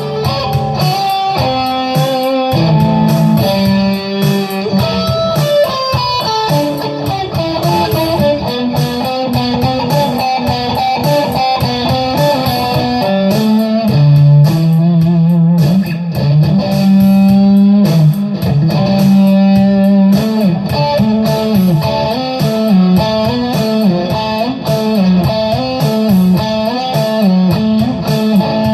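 Electric guitar playing improvised lead lines: runs of single notes over scales, with some held notes and a wavering vibrato passage about halfway through.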